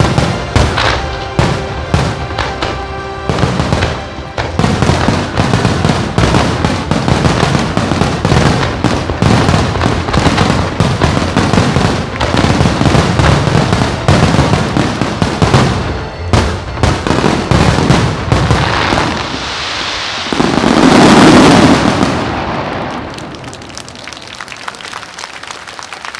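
Fireworks finale: a dense barrage of shells bursting in quick succession over music. About twenty seconds in, a loud rushing swell peaks, then the sound dies down.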